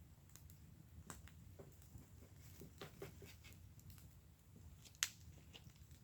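Wood fire in a fire pit crackling softly, with scattered small pops and one sharper pop about five seconds in.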